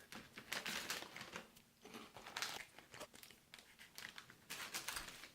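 MRE plastic packaging crinkling and rustling in irregular bursts as it is handled and opened.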